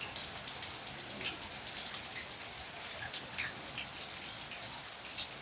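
Rain falling steadily, with individual drops striking a surface in scattered sharp ticks throughout.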